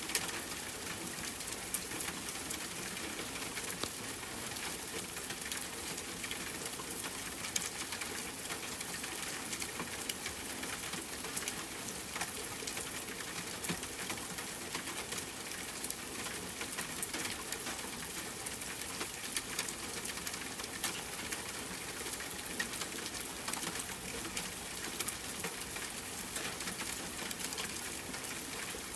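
Steady rain falling, with many individual drops ticking sharply as they land.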